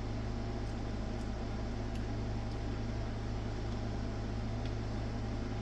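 Steady low electrical hum with an even fan-like hiss over it, unchanging throughout, typical of mains-powered bench electronics running.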